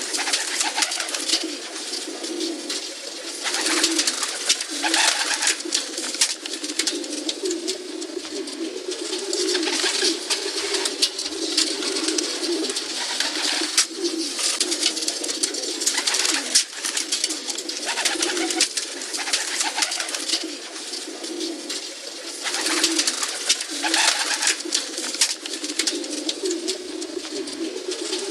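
Pigeons cooing steadily, their low coos overlapping and pulsing throughout, with a busy patter of rustles and clicks over the top.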